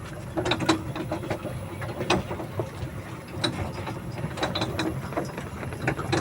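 Train carriage rattling and clanking as it runs: irregular sharp clicks and knocks over a steady low rumble.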